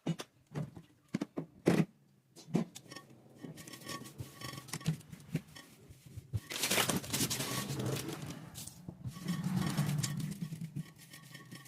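Knocks and clatter of items being handled, then a few seconds of loud rubbing or rushing noise, over faint background music.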